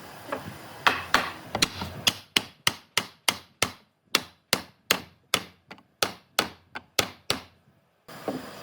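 Repeated hammer strikes in a woodworking shop: about twenty sharp blows at roughly three a second, each with a short ring, stopping abruptly near the end.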